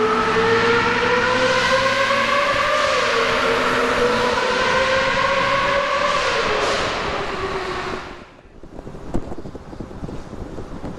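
Lamborghini Aventador SVJ Roadster's V12 engine accelerating hard, its pitch climbing steadily for several seconds, then falling as the throttle eases. About eight seconds in the engine note drops away suddenly, leaving wind and road rumble.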